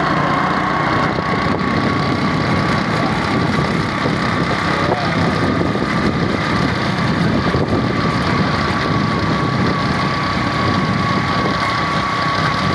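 A vehicle engine running steadily, with a thin high whine held at one pitch that creeps up slightly.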